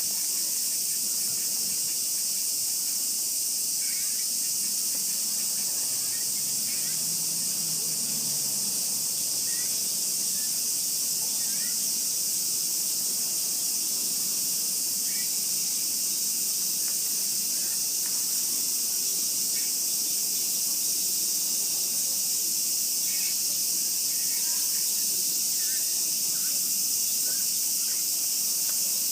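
A chorus of cicadas drones steadily in a high, even buzz, with a few faint short chirps scattered through it.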